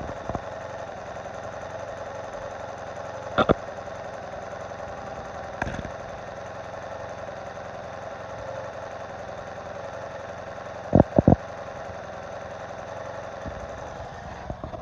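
1986 Honda Magna 700's V4 engine idling steadily with a rapid ticking that persists after a valve adjustment, its cause unknown to the owner. A few sharp knocks stand out over it, a close pair near the end.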